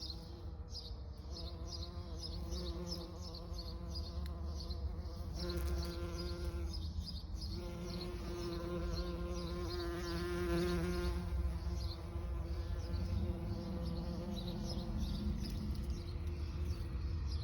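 Bee buzzing in flight, its hum wavering in pitch and swelling and fading. Under it runs a steady high chirping of two or three chirps a second.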